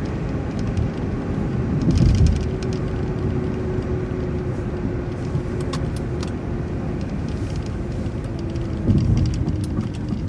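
Cabin noise of a moving city bus: a steady low rumble of engine and road, with a faint steady hum. There are two louder bumps, one about two seconds in and one near the end.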